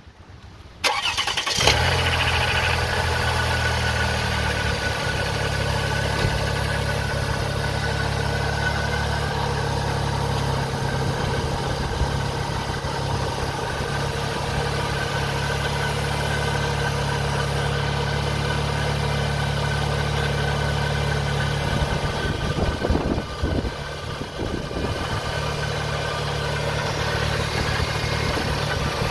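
Toyota Sienna's 3.3-litre V6 starting about a second in, catching at once, then idling steadily, with a brief unsteady patch a little over twenty seconds in.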